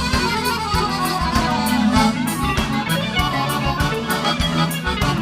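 Live gaúcho dance music, an instrumental passage led by accordion over a steady bass and drum beat.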